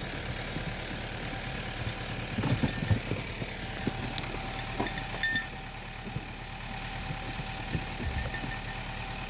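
A tractor engine idles steadily in the background, with a few scattered light clinks and knocks over it.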